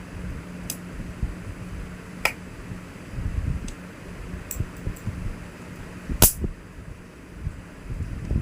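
Scattered sharp clicks and knocks of hard parts and tools being handled during a wall fan repair, the loudest a single knock about six seconds in, over a low steady hum.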